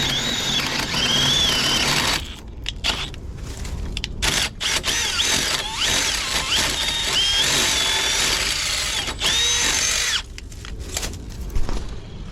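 Power drill boring a 1 1/8 inch paddle bit through a wooden rim joist. The motor's whine wavers in pitch as the bit bites, and the drill eases off and restarts a few times.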